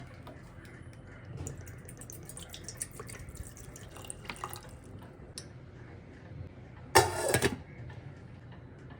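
Water dripping and trickling with scattered light clicks, then a short loud burst of noise about seven seconds in.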